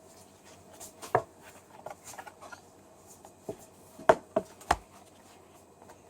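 A few soft knocks and taps from a board book being handled, the strongest cluster about four seconds in, over a faint steady hum.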